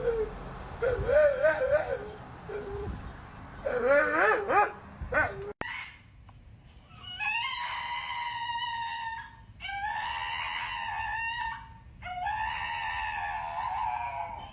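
Dog howling: wavering, pitch-bending howls and whines, then three long, drawn-out howls of about two seconds each with short gaps between them.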